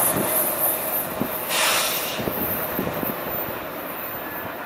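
A diesel-hauled freight train fading away as it moves off down the line, its rumble dying down with a few wheel clicks on the rail joints. A brief hiss of noise comes about a second and a half in.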